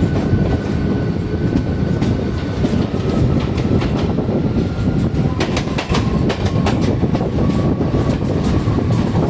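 Train running on the rails: a steady loud rumble of wheels and cars, with a faint thin whine throughout and a run of clicks from about halfway through.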